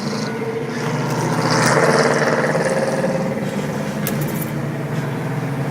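Car engine running steadily while driving, with road noise; the sound swells louder about two seconds in, then settles back.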